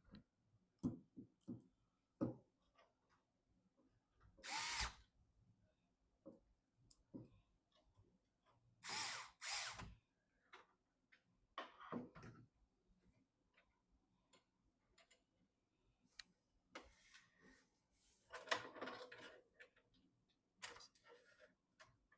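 Hands working on a PC build: scattered small clicks and knocks of parts and screws, with a few short rasping bursts under a second long, about five, nine and nineteen seconds in.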